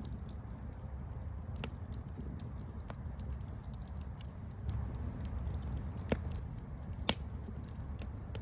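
Wood campfire burning: a low steady rumble of flames with scattered small crackles and a few sharper pops, the loudest about seven seconds in.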